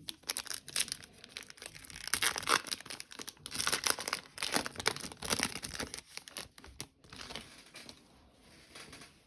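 Wrapper of a 2021 Panini Select trading-card pack being torn and crinkled in the hands, a dense irregular rustling and crackling that thins out after about seven seconds.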